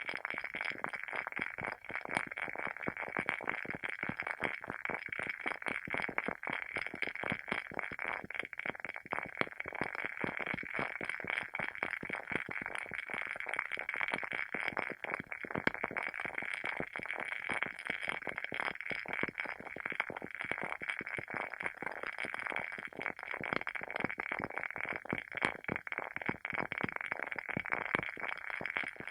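Wooden candle wick (WoodWick) burning with a steady, dense crackle of quick small pops, like a tiny fire.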